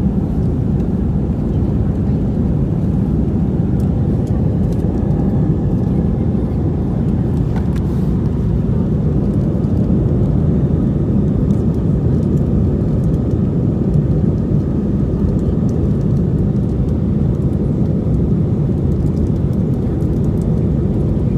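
Steady low rumble of an airliner cabin in flight: engine and airflow noise, even in level throughout.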